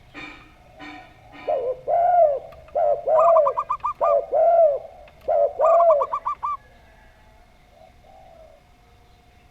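Doves cooing: a run of arched coos, some joined to a quick rippling trill of higher notes, from about a second and a half in until about six and a half seconds.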